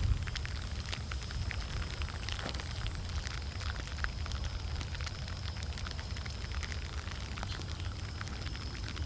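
Rain falling: many scattered drops clicking and pattering over a low, steady rumble.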